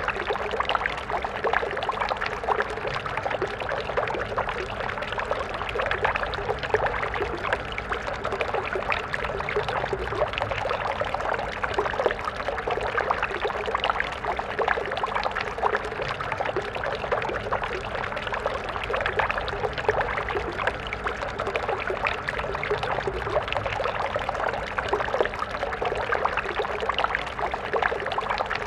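A stream of water flowing and splashing steadily, with a continuous babbling, trickling rush.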